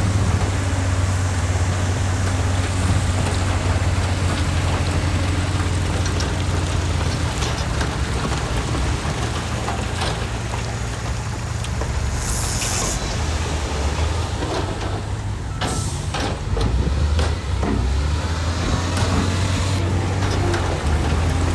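Heavy diesel engines of earthmoving machinery running steadily, with scattered knocks and clanks and a short hiss about 12 seconds in.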